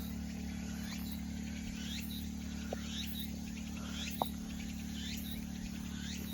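Insects calling in a summer garden: a high pulsing song about twice a second and a rising chirp about once a second, over a steady low hum. Two short pips come near the middle.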